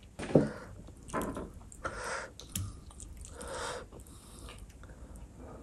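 Close-miked wet eating sounds in several short bursts: chewing mutton curry, with the squelch of gravy-soaked meat being pulled apart by fingers.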